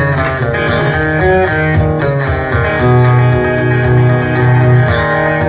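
Acoustic guitar strumming held chords over low bass notes, a song's instrumental intro with no voice.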